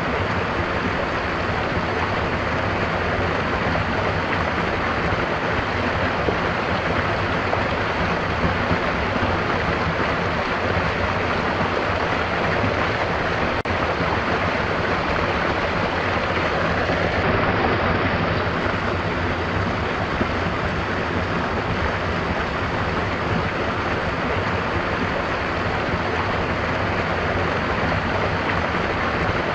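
Stream water running: a steady, even rush of flowing water.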